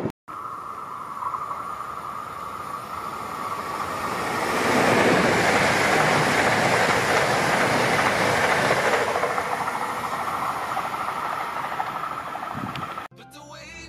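An electric multiple-unit passenger train passing at speed, with a rushing rumble of wheels on rails that builds, peaks for a few seconds and then fades as it recedes. A steady high whine runs beneath it, and the sound breaks off suddenly near the end.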